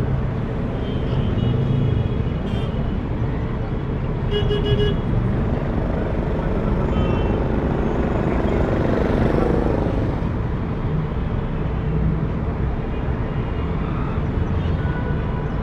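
Busy city street traffic: a steady rumble of passing cars and engines, with a short car horn toot about four and a half seconds in. Around eight to ten seconds a passing vehicle's sound falls in pitch as it goes by.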